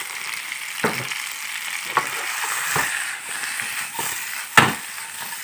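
Fried tofu, cabe gendot chilies and spice paste sizzling in oil in a wok, with several sharp knocks as the food is stirred and tossed; the loudest knock comes about four and a half seconds in.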